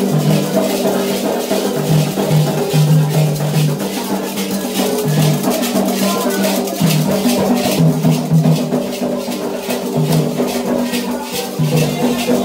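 Candomblé ritual percussion music: rapid, even strikes with rattles and a held low melody that steps back and forth between two notes.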